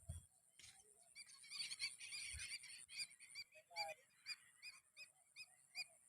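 A flock of birds calling over rice fields: a dense burst of chatter about a second in, then short, high chirps repeating about twice a second. A steady high-pitched buzz runs underneath.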